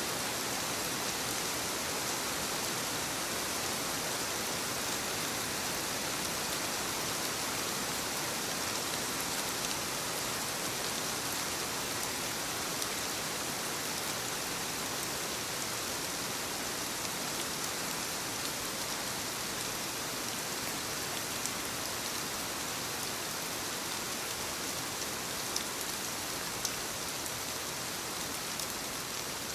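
Steady rain falling, an even hiss with now and then a single drop ticking louder.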